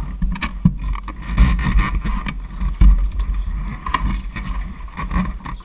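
Wind buffeting and rushing over the microphone of a moving motorcycle, with the bike's running noise underneath. The sound is loud and uneven, with gusty rumble and scattered knocks.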